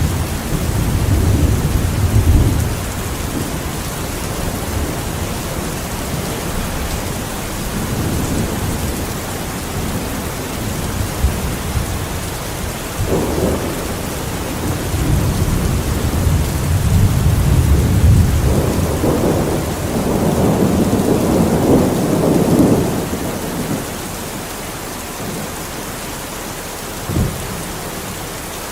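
Steady heavy rain with rolling thunder. Low rumbles come and go, building to a long swell through the middle that dies away about three quarters of the way through, then a short low thud near the end.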